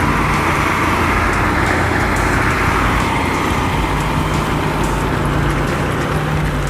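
Heavy diesel engines of a Kirovets K700 tractor and a Ural-4320 truck running steadily under load as the tractor tows the truck up a muddy, snowy slope.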